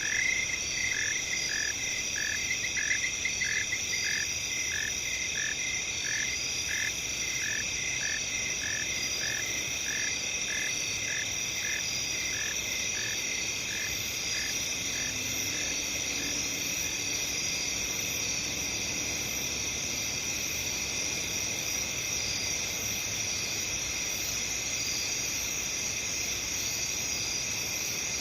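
Steady high-pitched chorus of crickets and other night insects, with a frog croaking in an even rhythm, a little under two calls a second, that fades out about halfway through.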